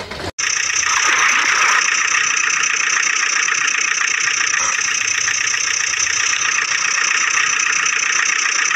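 Steady, high-pitched engine sound effect with a fast rattle, thin and lacking any deep rumble. It carries on without a break while the toy truck sits in the water.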